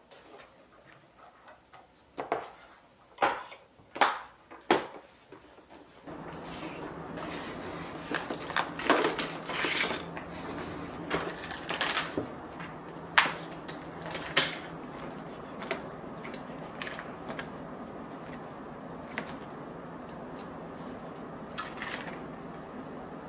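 Household handling sounds: a few sharp clicks and knocks, then a steady low hum starting about six seconds in, with scattered clinks like dishes and utensils being handled over it.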